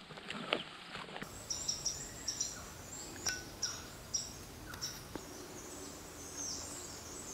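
Small forest birds calling, one giving short high chirps about twice a second, with fainter calls behind. In the first second there are a few footsteps on dry grass.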